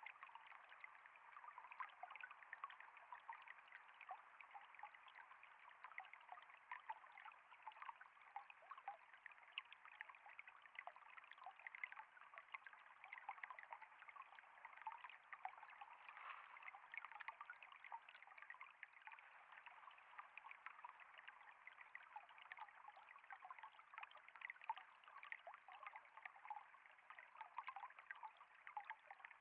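Faint flowing water trickling steadily, a constant patter of small splashes.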